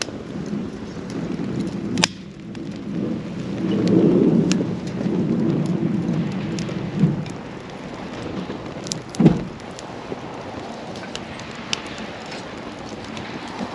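Wood campfire crackling with scattered sharp pops, one loud snap about two seconds in and a heavier knock near nine seconds. A low rumbling gust of wind on the microphone swells and fades over the first seven seconds.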